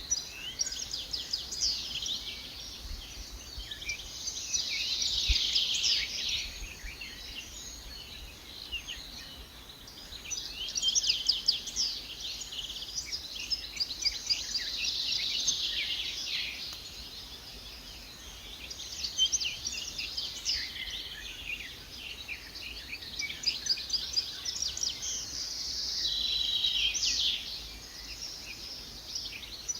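Dense chorus of many small birds chirping and twittering, high-pitched and rapid, swelling and fading in waves about every ten seconds.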